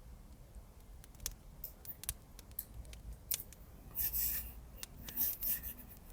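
Scissors cutting paper in two long snips, about four and five seconds in, over scattered crackling from a fireplace.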